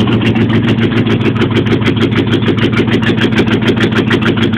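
A 1989 Jeep Grand Wagoneer's AMC 360 V8 with a two-barrel carburettor idling just after a cold start, running steadily with an even rapid pulsing.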